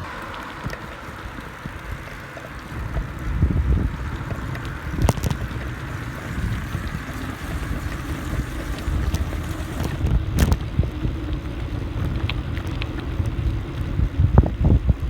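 Wind buffeting a phone's microphone on a moving bicycle, a low gusty rumble with a few sharp clicks and knocks, several near the end.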